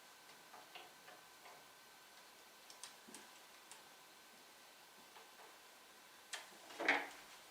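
Faint, irregular small clicks and light taps over a faint steady high tone, with two louder knocks near the end.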